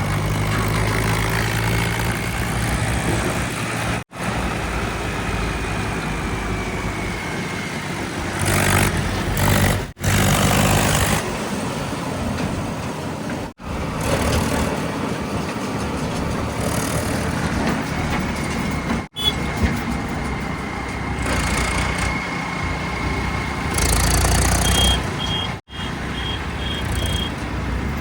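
Heavy diesel engines of earthmoving machinery and tipper trucks running and working under load, in several short segments with abrupt breaks between them. A series of short, evenly spaced high beeps sounds near the end.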